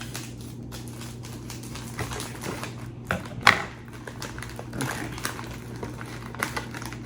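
Food-prep handling at a kitchen counter: a run of light clicks and taps from packaging and food being moved around, with one sharper knock about three and a half seconds in, over a steady low hum.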